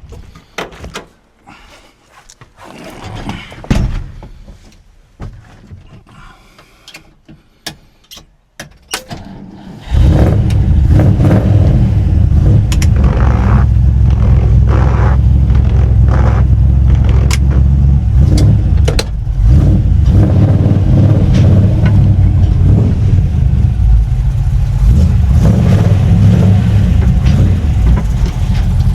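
Scattered clicks and knocks, then about a third of the way in a car engine comes in suddenly and runs steadily and loudly with a heavy low note.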